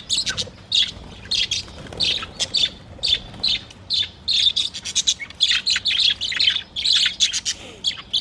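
A flock of budgerigars chirping and chattering continuously, many short rapid calls overlapping.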